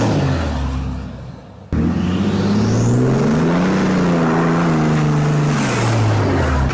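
Cummins 6.7 turbo diesel engine in a Ram TRX revving. A rev sinks and fades over the first second or so, then breaks off abruptly. A new rev climbs and is held for a couple of seconds, with a high whistle rising over it, then drops back near the end.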